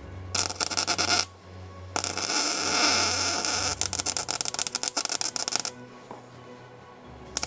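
Background music, with three bursts of MIG welding crackle: a short burst about half a second in, a long one of nearly four seconds, and another starting near the end.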